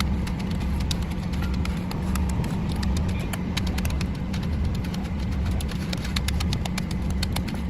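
Construction machinery engine running steadily with a low rumble, with many light, irregular clicks and knocks over it.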